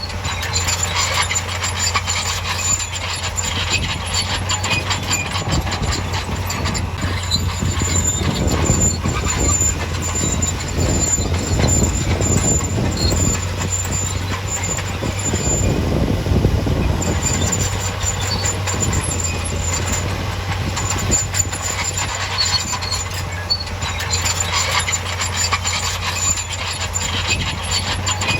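Bulldozer's diesel engine running with its steel crawler tracks clanking and squealing, the rumble growing heavier for a stretch in the middle.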